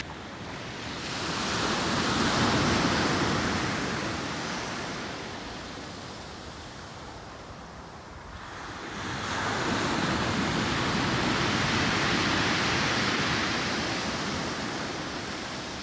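Ocean surf washing onto a beach: a wave swells and peaks about two to three seconds in, fades, and the next builds about nine seconds in and holds before easing near the end.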